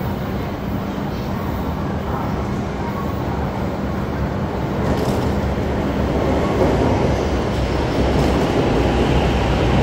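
E5-series Shinkansen, coupled to an E8-series set, pulling slowly into a station platform: a steady low running noise of the train that grows louder as the cars slide past, from about halfway through.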